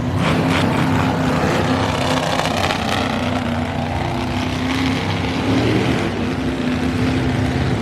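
Monster truck engines running loud and steady, with a low, slightly wavering drone.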